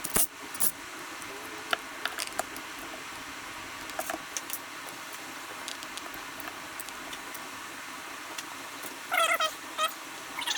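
Scattered clicks and light knocks of hands and small parts being worked on a dirt bike's engine while its connectors and spark plug cap are undone, with a short wavering squeak about nine seconds in.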